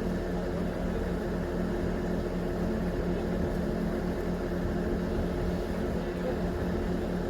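A steady low mechanical hum with a constant droning tone, unchanging throughout.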